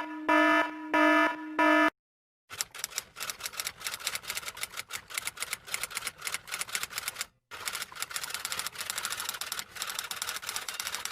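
Four short pitched electronic beeps in a row, then, after a brief pause, fast steady typing clatter of many rapid key clicks with a short break partway through.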